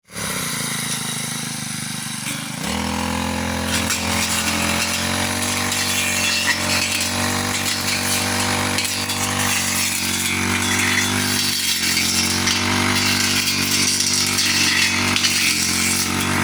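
Grass-cutting machine's small engine running. About two and a half seconds in it speeds up, then keeps running steadily at the higher speed.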